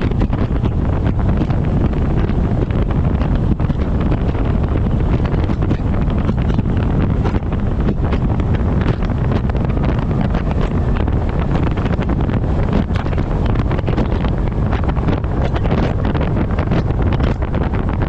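Wind buffeting the microphone of a camera strapped to the front of a moving truck: a steady, loud rushing rumble, heaviest in the low end.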